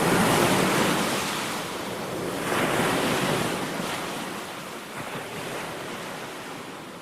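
Ocean surf: waves washing in, with one swell about two and a half seconds in, the whole sound fading out gradually.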